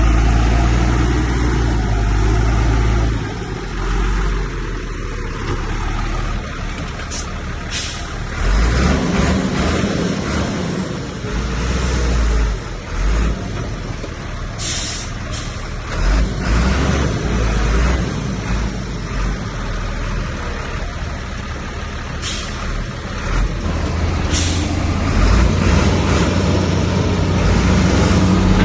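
Heavy diesel earthmoving machinery running under load, its low engine rumble rising and easing, with several short sharp hisses.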